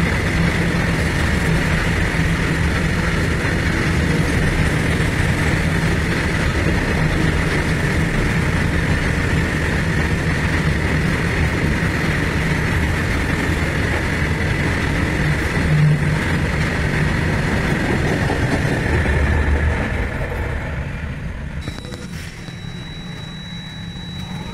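Indian Railways freight train of open wagons loaded with coal rolling past close by: a loud, steady rumble and clatter of wheels on rail. The noise fades away about twenty seconds in as the last wagons go by, and a steady high tone comes in near the end.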